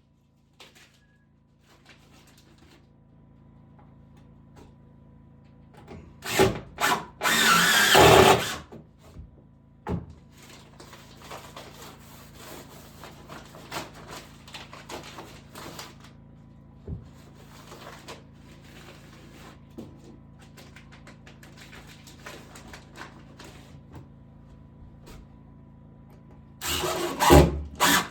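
Power drill running in short bursts, several around a quarter of the way in and another pair near the end, as during drilling or driving screws in woodwork. Quieter scraping and handling sounds fill the gaps.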